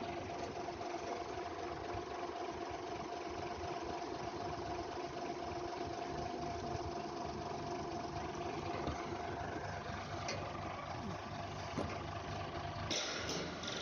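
A refrigeration unit running with a steady mechanical hum and a constant drone. A louder burst of hiss comes near the end.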